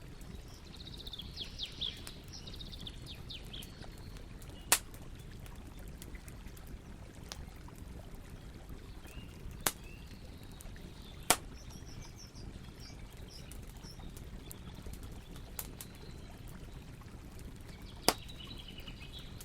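Campfire crackling, with four sharp pops from the burning wood over a steady low rustle. Birds chirp in the background, near the start, in the middle and near the end.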